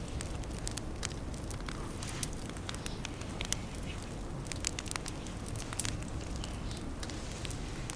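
Small wood campfire crackling, with irregular sharp pops and snaps scattered throughout over a low steady rumble.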